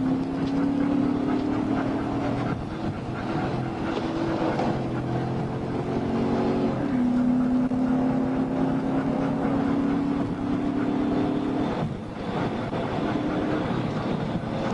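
Police patrol car's engine running hard during a high-speed pursuit, heard from inside the car over road and wind noise. Its pitch holds steady and then steps down about seven seconds in, as with a gear change, and it dips briefly near the end.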